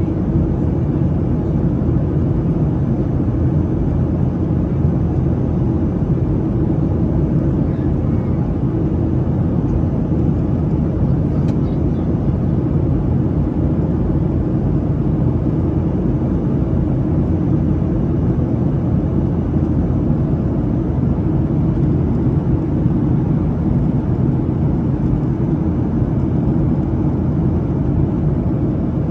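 Steady cabin noise of a Boeing 737-700 in flight: the CFM56-7 engines' low drone and airflow heard from inside the cabin at a window seat.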